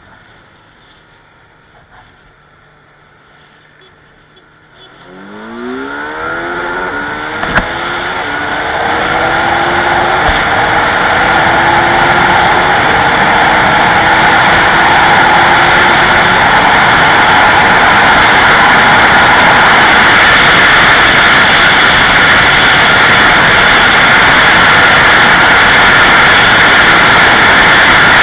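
Kawasaki Z900 inline-four motorcycle engine running quietly at first, then accelerating hard about five seconds in, its pitch sweeping up. From about twelve seconds in it becomes a loud, steady rush that lasts to the end.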